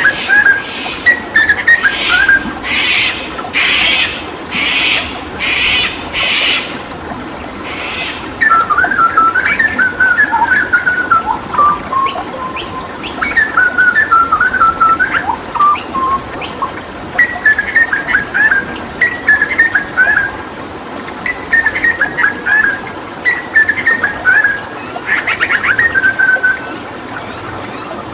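Hooded butcherbird singing: fluted, whistled phrases that glide up and down in pitch, broken early on by a run of about six short harsh rasping notes. A steady rush of running water lies underneath.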